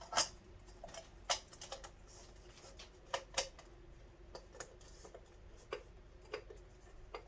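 Scattered light clicks and taps, about a dozen at irregular intervals, from small parts being handled and fitted by hand, over a faint steady hum.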